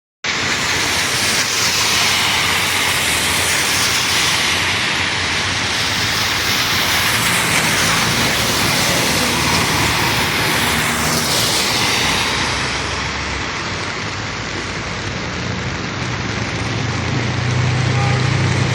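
Rain and traffic on a wet road: a steady hiss of rain and tyres on wet tarmac, with vehicle engines passing, one heavier engine coming through near the end.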